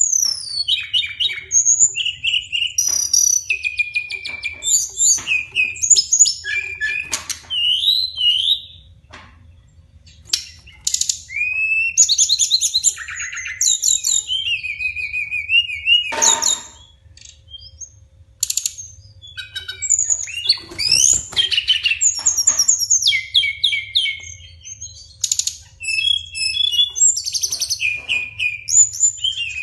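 Brown-chested jungle flycatcher (sikatan rimba dada coklat) singing a long run of clear whistled phrases, many sliding up or down in pitch, broken by short pauses about ten and eighteen seconds in.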